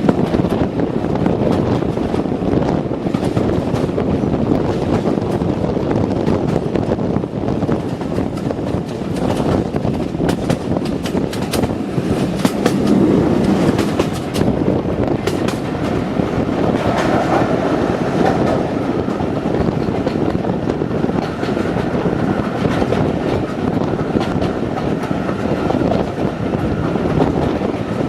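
Heritage railway train running along the track: a steady, loud rumble of wheels on rail, with many irregular clicks throughout.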